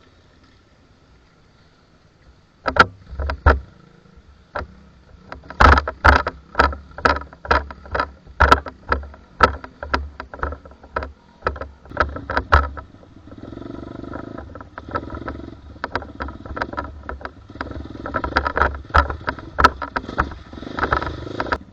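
Small pit bike engine running at low speed, with a run of sharp knocks and thumps about twice a second from about three seconds in to about halfway, and more near the end.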